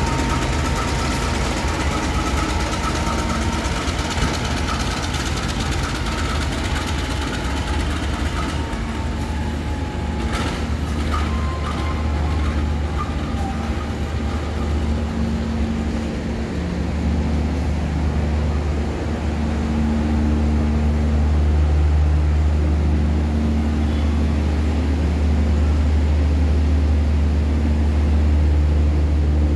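Diesel-hauled passenger train moving slowly through a station, with a thin high squeal from the wheels and a few sharp clicks about ten seconds in. After that a steady low diesel engine drone takes over and grows louder.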